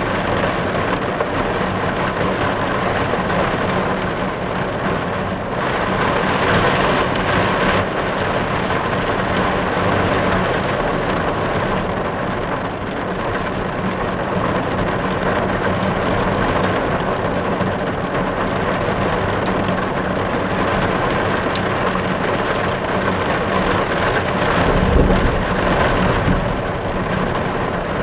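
Steady rain falling on a car, heard from inside the car as an even, unbroken patter. A brief low rumble rises near the end.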